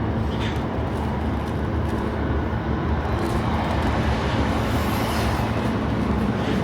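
Inside a moving Class 455 electric suburban train: a steady rumble of the wheels on the rails with a faint motor hum.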